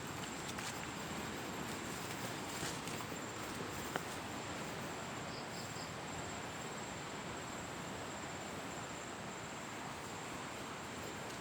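Steady outdoor hiss with a thin, high, steady insect tone over it, and a few light ticks in the first four seconds.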